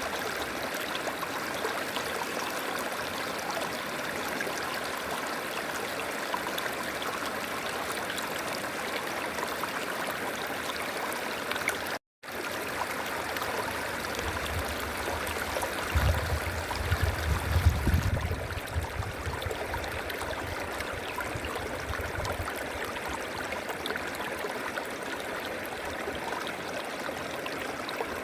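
River water flowing and burbling in a steady rush. About halfway through, the sound cuts out for a split second, and soon after a low rumble swells up under the water for several seconds before fading.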